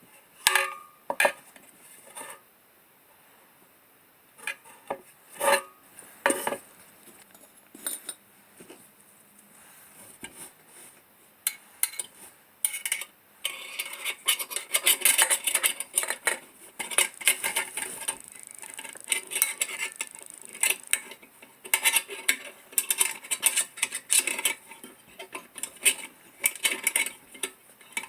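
Scattered light metal clinks and knocks, then from about 13 seconds in a dense run of scraping mixed with frequent clinks: the metal parts of an old oil lantern being handled and worked on by hand.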